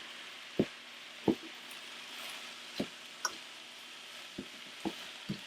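Chicken and vegetable stir fry sizzling quietly in a deep pan while a spoon stirs it, the spoon knocking against the pan about seven times.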